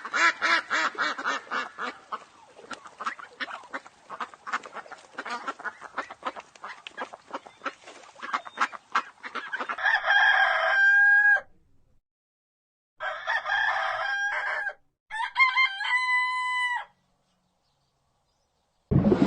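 Chickens clucking in quick, dense pulses for about ten seconds, then a rooster crowing three times.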